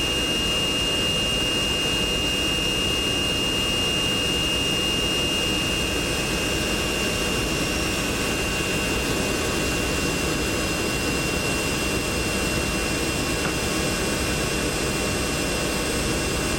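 Non-hush-kitted Pratt & Whitney JT3D turbofan engines of a Boeing 720 running at a steady, loud drone, with a high whine that dips slightly in pitch about five seconds in.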